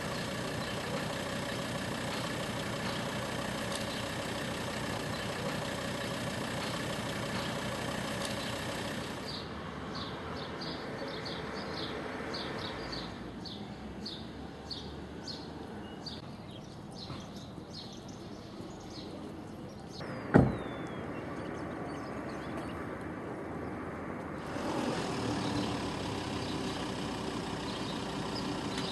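Street traffic ambience with vehicles running. The background changes abruptly twice, and a single sharp thump comes about twenty seconds in.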